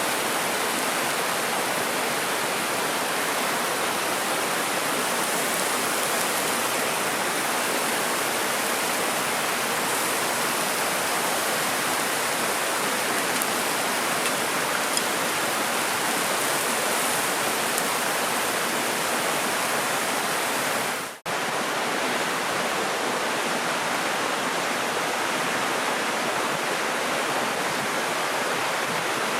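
Mountain river rushing steadily, a continuous even water noise, broken by a split-second gap about two-thirds of the way through.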